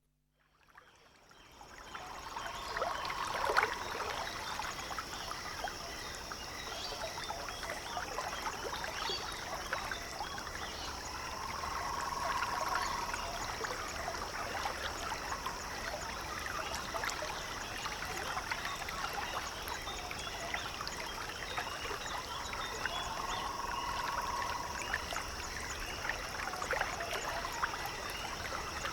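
Water lapping and trickling with a steady high hum, fading in at the start. A short trilling animal call sounds three times, near the start, in the middle and near the end.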